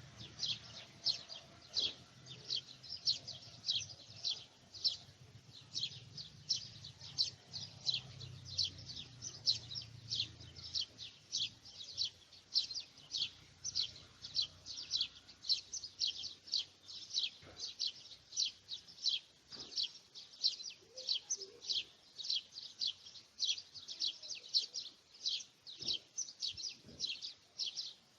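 A bird chirping over and over, short high notes at about two or three a second without a break. A faint low rumble runs beneath the chirps for the first ten seconds or so, then fades.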